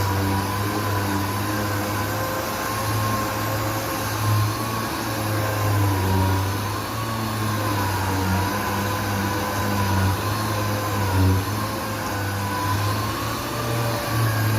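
Orbital sanding machine running steadily on a car's epoxy-primed body panel, its high whine wavering slightly as pressure on the pad changes.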